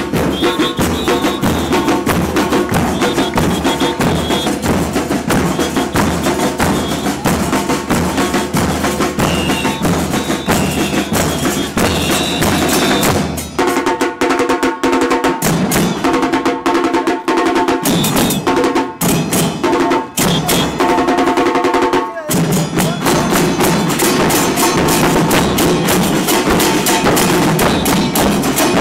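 Carnival percussion band drumming a fast, dense rhythm. About halfway through the low drums drop out for several seconds, leaving lighter, more tonal playing, then the full drums come back in.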